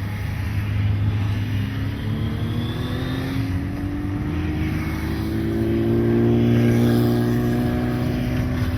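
Racing motorcycle engine accelerating on track, its note rising steadily and swelling loudest about two-thirds of the way through.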